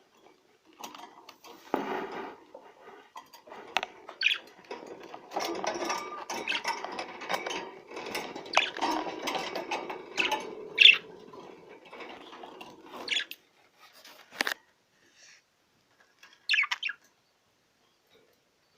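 Male budgerigar warbling: a long, scratchy, chattering song broken by sharp high chirps, the courtship warble a male uses to stir a hen. The song stops about two-thirds of the way through, leaving a few single chirps.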